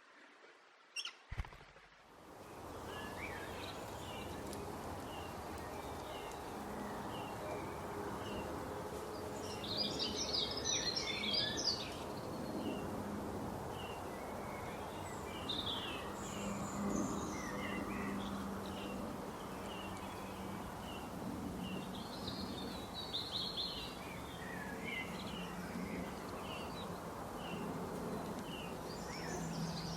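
Birds singing and chirping outdoors: short high chirps repeated about once a second, with louder bursts of busier song several times over a steady background hum. Two sharp clicks about a second in.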